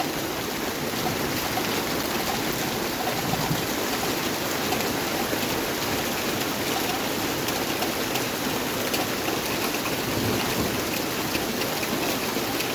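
Heavy downpour of rain, a steady loud hiss of drops pouring down without a break.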